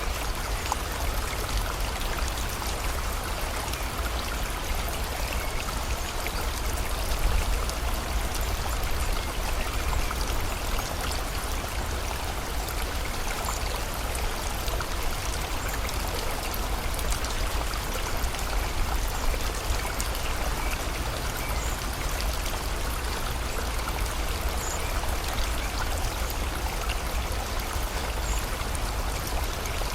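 Steady rain falling together with the continuous rush of a flowing river.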